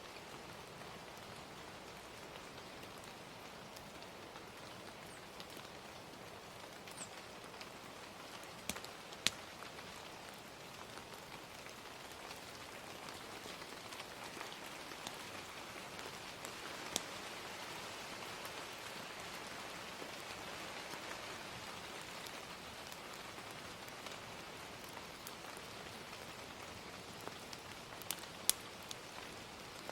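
Ambient recording of steady rain with a crackling fire. A handful of sharp pops from the fire stand out, a pair about nine seconds in, one near the middle and a couple near the end.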